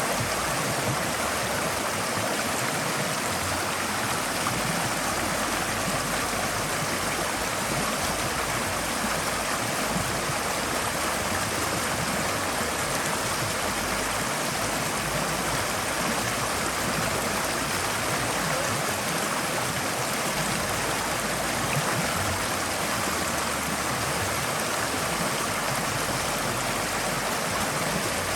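Forest stream flowing steadily over rocks, an even rush of water with light gurgling.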